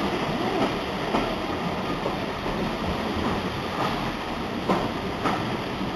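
Train running on the rails: a steady rumble and rattle of wheels on track, with scattered knocks.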